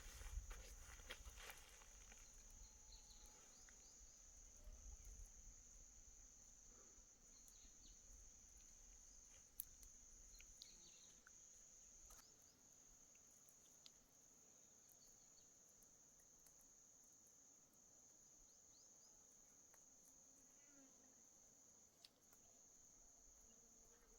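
Faint, steady high-pitched trilling of insects, with a few soft clicks and a low rumble in the first couple of seconds.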